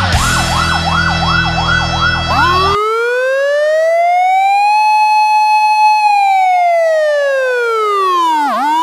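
Electronic siren: a fast yelp cycling about three times a second over steady background tones, switching about three seconds in to a slow wail that rises, holds, sinks low near the end and begins to rise again.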